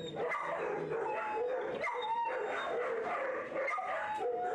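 Several dogs barking and whining over one another, with short yips and rising and falling whines.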